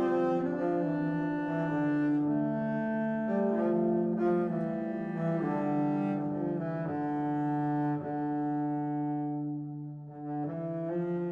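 Slow background music led by bowed low strings, cello-like, playing long held notes that change about every second, with a brief dip about ten seconds in.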